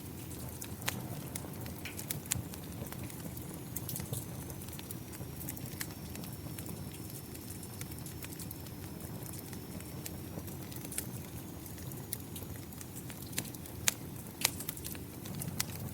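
Wood fire crackling with scattered sharp pops, two louder ones near the end, over a steady low rush of rain.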